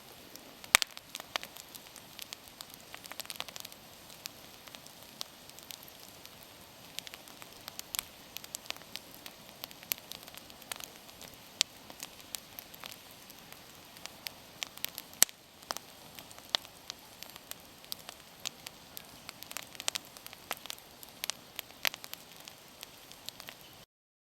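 Wood bonfire crackling: irregular sharp pops and snaps over a faint steady hiss. The sound cuts off abruptly just before the end.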